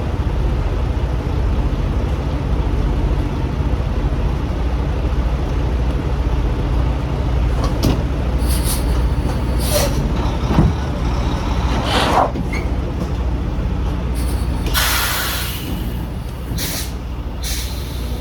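Semi-truck diesel engine idling steadily, with short hisses of compressed air from the air brake system several times and one louder hiss lasting about a second some fifteen seconds in.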